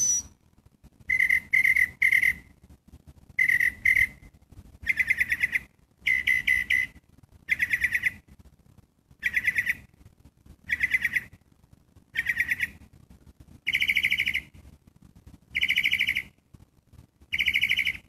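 A bird repeating a harsh, buzzy call about every one and a half seconds, some eleven times; the first few calls are broken into two or three short notes and the later ones are single and longer. The uploader takes the bird for a catbird.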